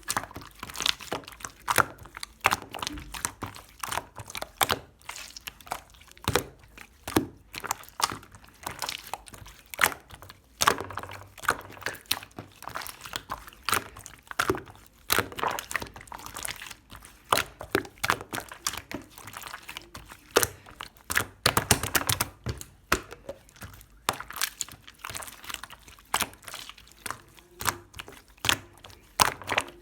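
Pink pearl slime being squished and worked by hand, making irregular sticky pops and clicks several times a second.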